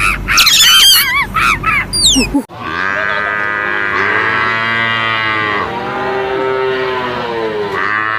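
Bird chirps for about the first two seconds, then a cut to a cow mooing. The moo is low and drawn out over about five seconds, rising and falling in pitch, and stops just before the end.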